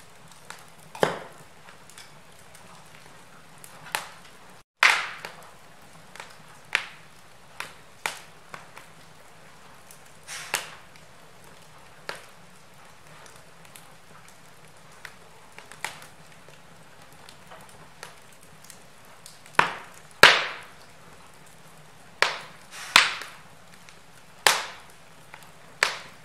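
Wood fire in a fireplace crackling, with sharp pops at irregular intervals over a faint steady hiss; the loudest pops come in the last third.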